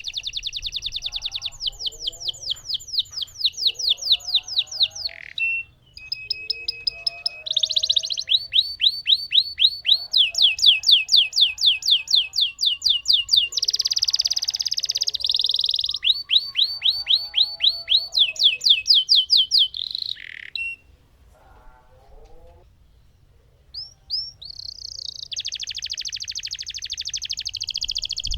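Domestic canary singing long rolls: fast runs of rapidly repeated notes, each run held for several seconds and changing pitch from run to run. The song breaks off for a few seconds in the last third, then starts again.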